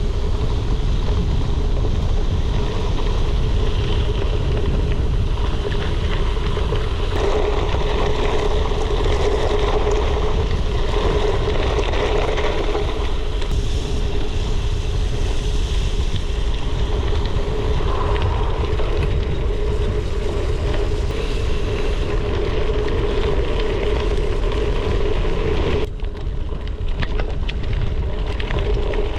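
Wind buffeting a helmet- or bike-mounted action-camera microphone over the rolling rumble of gravel-bike tyres on a forest trail, with a steady hum under it. It eases briefly near the end.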